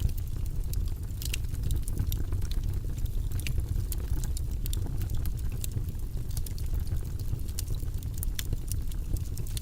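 Wood fire in a fireplace crackling: many irregular sharp pops and snaps over a steady low rumble of burning.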